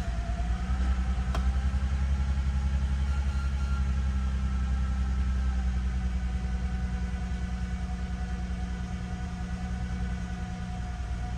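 2000 Toyota Avalon's V6 engine idling fast and a little rough just after a cold start, having sat for almost two months. The idle eases slightly in the second half. There is a single click about a second and a half in.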